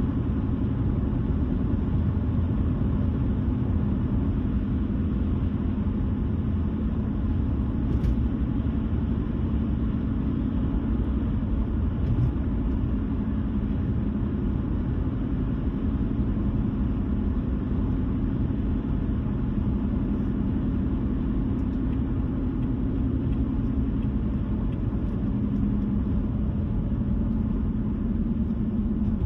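A car driving steadily at road speed: a continuous low rumble of tyres on the road and the engine, with two faint clicks about eight and twelve seconds in.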